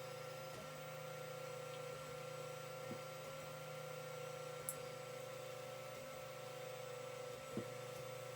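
Creality CR-10 3D printer running a print: a steady hum and whine with a few faint clicks.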